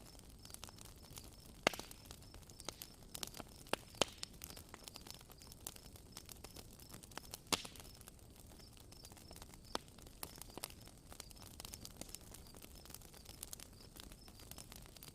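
Campfire crackling: scattered sharp pops and snaps over a faint hiss, a few louder pops standing out. A faint, evenly repeated high chirp runs behind it.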